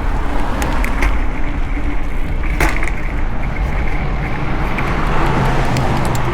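Wind and road noise rushing over the camera's microphone on a moving mountain bike, with a single sharp click about two and a half seconds in.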